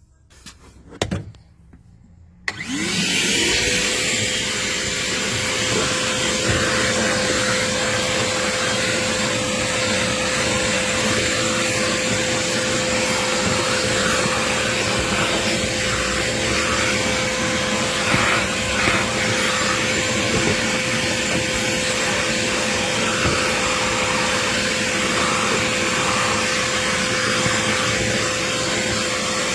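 Vacmaster VOM205P 2.5-gallon wet/dry shop vacuum switched on about two and a half seconds in, its motor spinning up to a steady whine and running at full suction while vacuuming dust in a car.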